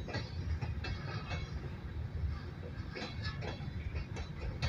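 Empty rock cars of a freight train rolling past: a steady low rumble with irregular clanks and clicks from the wheels and car bodies.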